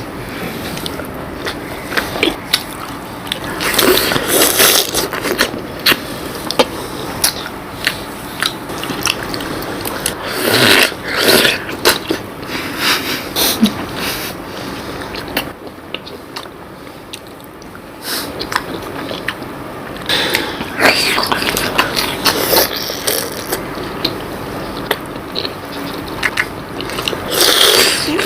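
Close-up wet chewing and slurping of syrup-soaked rasgullas, with many small clicks and scrapes and several louder, noisier stretches of a second or two.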